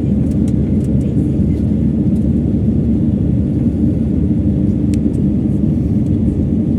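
Steady cabin noise inside a passenger jet in flight: a loud, even low rumble of engines and airflow with a constant hum, and a few faint ticks.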